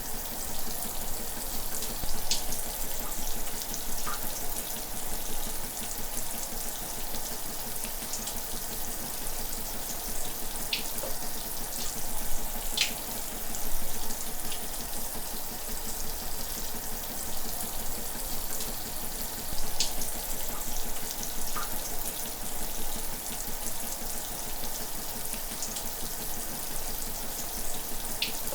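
Shower running steadily, water spraying and splashing in a constant hiss, with a few brief high plinks that fall in pitch.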